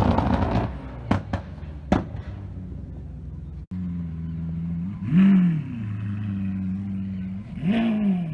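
A Lamborghini Huracán's engine running loud and then fading, with a few sharp cracks. After an abrupt cut, a supercar engine idles steadily and is blipped twice, the revs rising and falling quickly, once midway and once near the end.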